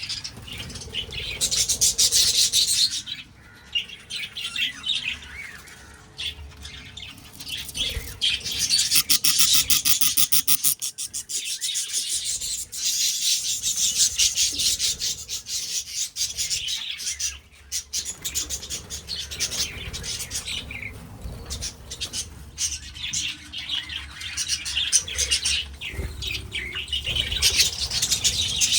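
Pet budgies chirping and chattering in a steady stream of high-pitched calls, coming in louder bursts of a few seconds with brief lulls between them.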